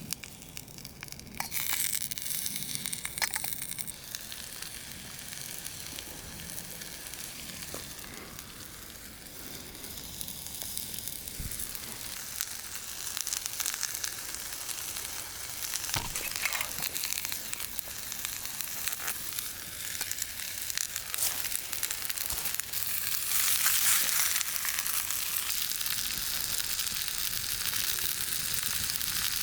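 Food sizzling as it fries in a pan over a campfire, a steady hiss that starts about a second and a half in and grows louder near the end, with an occasional click.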